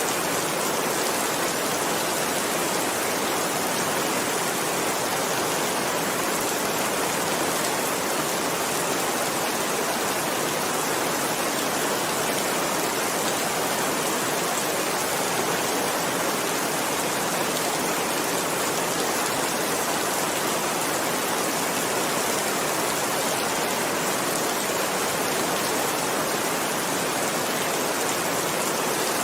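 Heavy rain falling steadily, an even, unbroken rushing hiss with no thunder or separate drops standing out.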